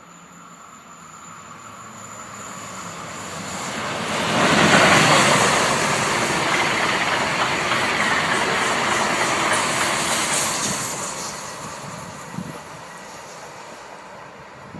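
Talgo passenger train passing on the rails: the noise of its wheels and running gear builds, holds loud and steady for about six seconds, then fades away. A single short knock comes near the end.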